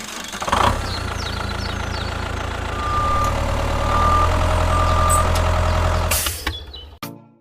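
Mini tractor engine running steadily, with three short high beeps near the middle; it stops about six and a half seconds in.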